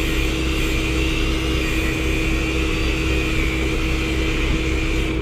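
A vehicle engine running steadily, a constant drone with a steady hum and no change in speed.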